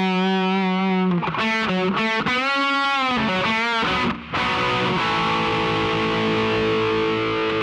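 Distorted electric guitar music: a held note, then a run of bent, wavering notes, then a long sustained chord after a short break.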